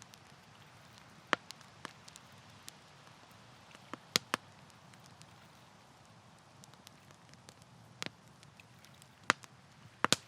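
Wood campfire crackling: a soft steady hiss broken by sharp, irregular pops, a handful of louder snaps among smaller ticks.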